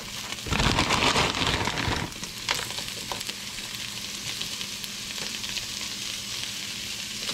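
Frozen vegetables sizzling in sesame oil in a hot frying pan as frozen bell pepper and onion pieces are dropped in. The sizzle is louder from about half a second in to about two seconds, then settles to a steady hiss with a few faint ticks.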